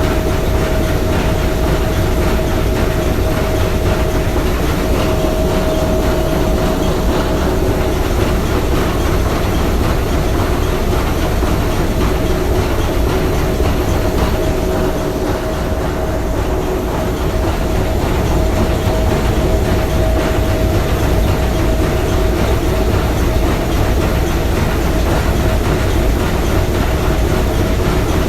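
Three-cylinder triple-expansion marine steam engine running steadily: a continuous mechanical clatter and rumble with a faint steady whine over it.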